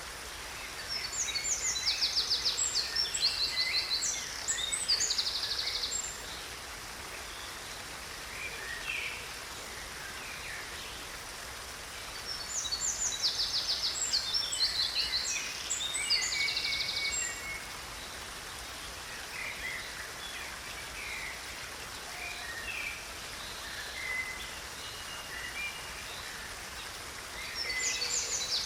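Small stream running steadily, with songbirds singing over it. Bursts of rapid, high trilled song come from about 1 to 6 seconds in, again from about 12 to 17 seconds, and near the end, with scattered chirps between.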